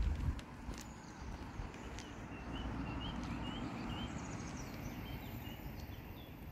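A small bird calling, a run of about eight short rising chirps in a few seconds, over a low outdoor rumble of wind.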